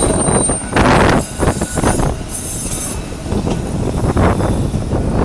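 Blackpool tram running on its rails, wheels rumbling in uneven surges, with a thin high wheel squeal during the first second.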